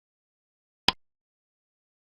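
Silence, broken once a little under a second in by a single short, sharp click.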